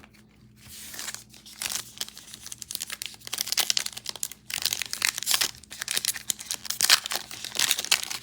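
Trading card pack wrapper being torn open and crinkled by hand, a dense run of crackling and tearing that starts about a second in and gets louder toward the end.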